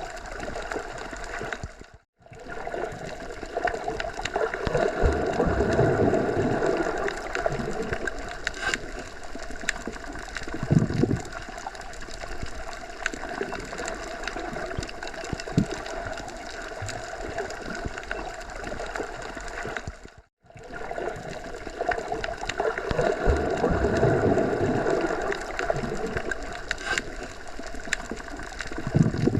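Nature ambience: a steady rushing, water-like noise that swells and eases, with many small ticks over it. It drops out briefly to silence twice, about two seconds in and about twenty seconds in, where the recording is spliced.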